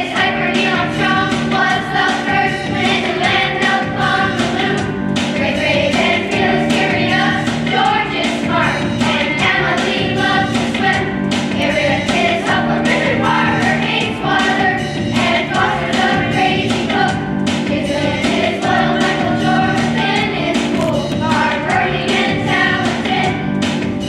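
A song with a group of voices singing over backing music with a steady beat.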